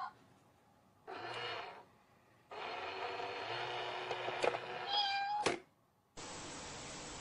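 A domestic cat meowing: a short meow about a second in, then a long drawn-out meow of about three seconds. Near the end a steady hiss starts.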